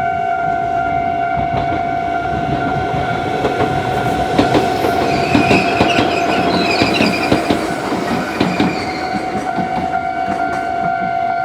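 Level-crossing warning bell ringing steadily while an Iyo Railway Takahama Line train passes. About four seconds in, the wheels clack over the rail joints and squeal briefly for several seconds.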